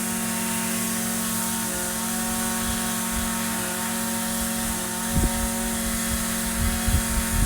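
Echo SRM-2620 string trimmer's small two-stroke engine running at a steady speed. A few low thumps come about five seconds in and again near the end.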